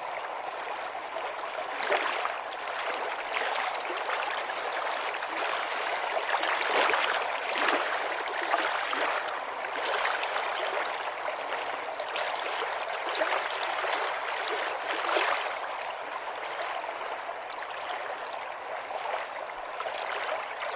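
Running water flowing steadily, a continuous rushing and gurgling with brief swells every second or two.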